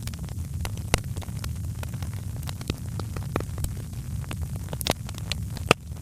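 Wood fire crackling, with irregular sharp pops and snaps, the loudest about a second in, near five seconds and just before the end, over a steady low rumble.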